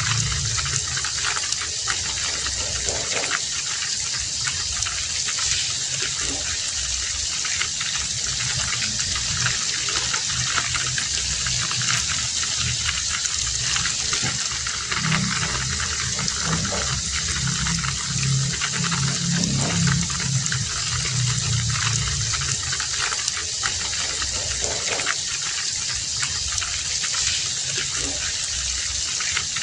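Heavy rain falling steadily, a dense even hiss, with a lower band of water noise underneath that swells about halfway through.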